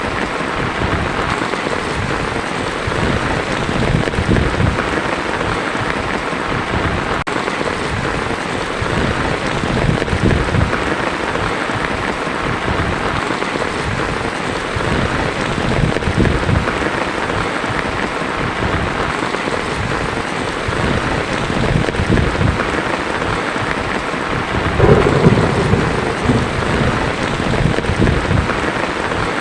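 Heavy rain falling steadily on a tin roof, with thunder rumbling low underneath and a louder peal of thunder near the end.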